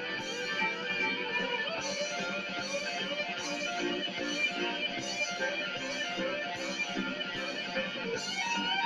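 Rock ballad's instrumental passage: electric guitar playing melodic lines over a band backing with a steady beat, no vocals.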